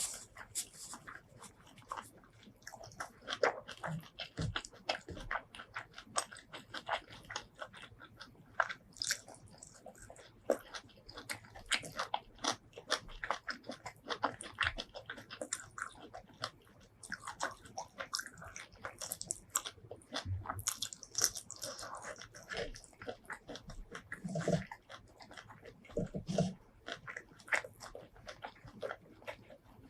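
Close-miked eating sounds: irregular chewing, biting and wet mouth smacks while eating shrimp curry with rice, with two brief low sounds from the eater near the end.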